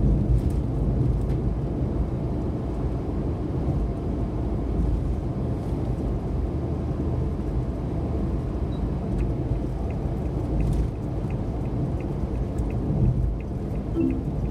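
Cabin noise of a Suzuki Every DA17V kei van at expressway speed: a steady low rumble of engine and tyres. About nine seconds in, a light ticking starts, about two a second: the turn signal clicking for the left exit.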